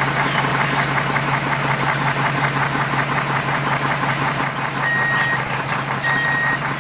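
A machine running steadily with a dense noise and a low hum, and two short high beeps about a second apart near the end.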